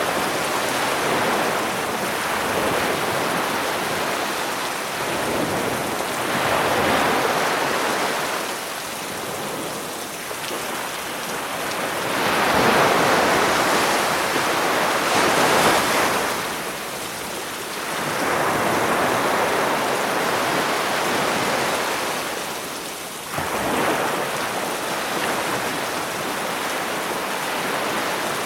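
Sea waves washing onto a beach, swelling and falling back every few seconds, under a steady hiss of rain layered over the surf.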